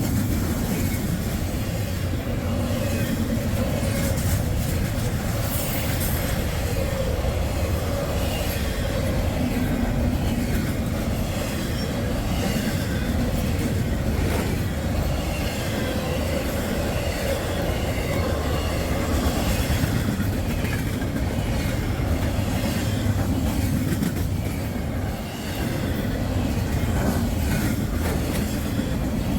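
A passing train: steady rumble of the cars rolling by, with steel wheels clicking over the rails.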